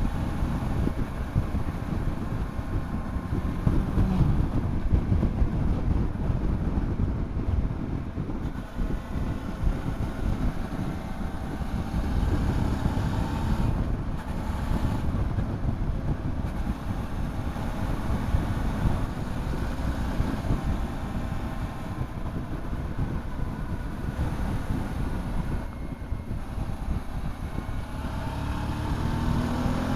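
Motorcycle on the move along a road, wind buffeting the microphone over a steady engine drone; the engine note rises near the end as the bike accelerates.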